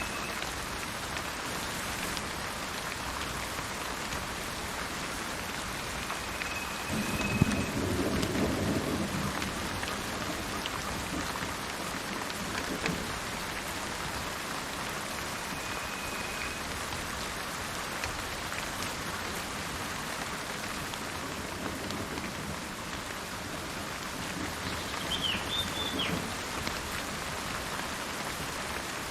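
Steady rain falling with thunder rolling, once about seven seconds in and again near the end. Brief high bird whistles now and then.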